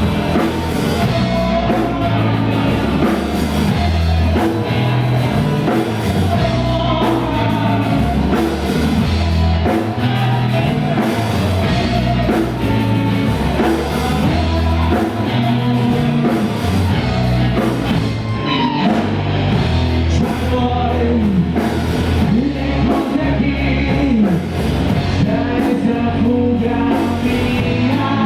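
Rock band playing a loud, steady song with drums, heavy guitars and a singing voice.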